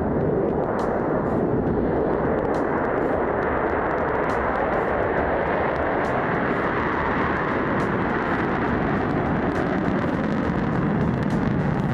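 Jet fighter engine noise: a loud, steady rush of jet exhaust that holds without a break.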